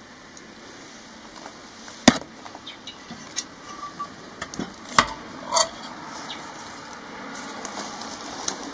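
A few sharp knocks and clicks, the loudest about two seconds in and again about five seconds in, with lighter ones between, over a faint steady background.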